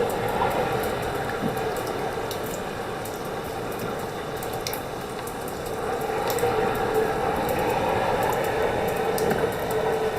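Steady roar of Hurricane Ivan's wind and water against and inside the building, swelling about six seconds in, with scattered small clicks and knocks.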